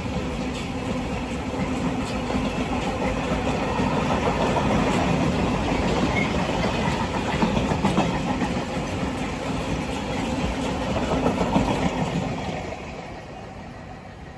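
A train running by, a steady rumble that fades away over the last second or two.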